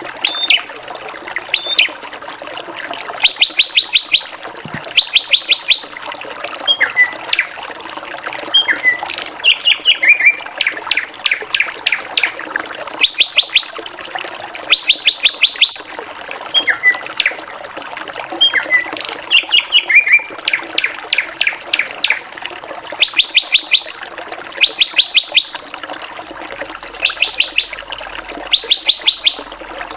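Drongo (srigunting) singing. It repeats bursts of about half a dozen quick, sharp high notes every couple of seconds, with short whistles and slurred chatter in between, over a steady hiss.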